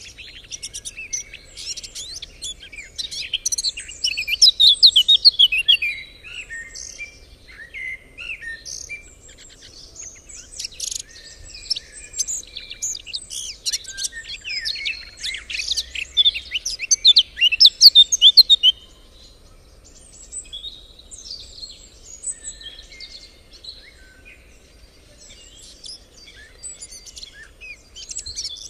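Songbirds singing and calling together, a busy chorus of overlapping chirps and quick trills. The chorus is loudest in the first two-thirds, then thins to scattered calls.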